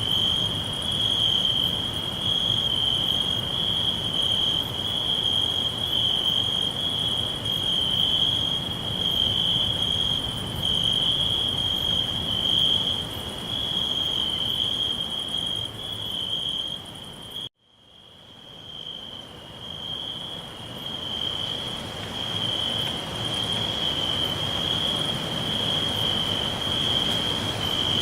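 Crickets chirping: a steady, high, pulsing trill over a low background hiss. About two-thirds of the way through, the sound cuts out sharply and fades back in over a few seconds.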